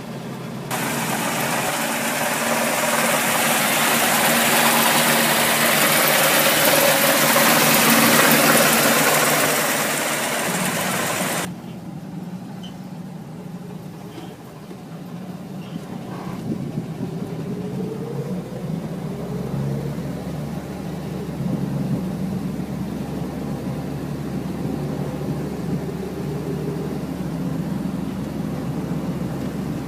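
1975 Plymouth Duster's engine running, heard from inside the cabin, under a loud steady hiss that starts about a second in and cuts off suddenly around eleven seconds. The engine then rises in pitch as the car pulls away and keeps running as it drives.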